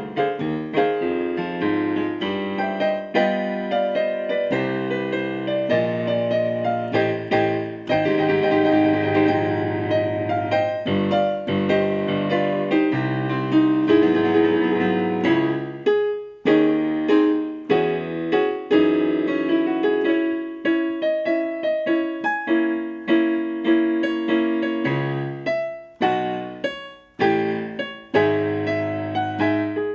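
Solo piano playing a piece of struck chords and melody notes that ring and fade, with brief dips between phrases.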